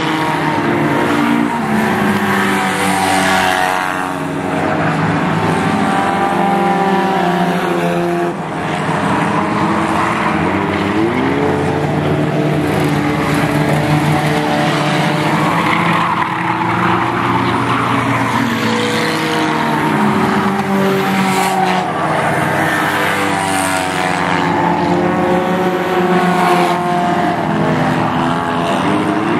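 Several stock cars racing in a pack, their engines running hard together, each rising and falling in pitch as they go by and through the turns.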